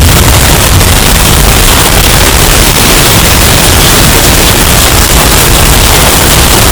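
Hurricane storm sound effect, bass-boosted until it distorts: a steady, very loud, clipped rush of noise with heavy low end.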